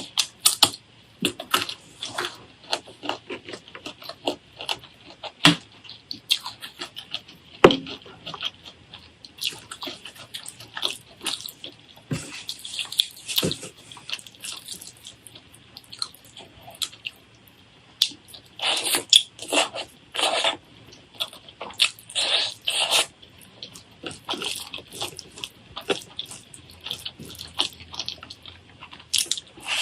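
Close-up eating sounds: irregular crunching and clicking, with a run of louder crunches about two-thirds of the way through.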